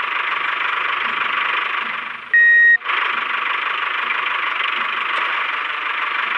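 A steady, hissing machine-like noise, cut about two seconds in by a single loud electronic beep lasting about half a second, after which the noise resumes.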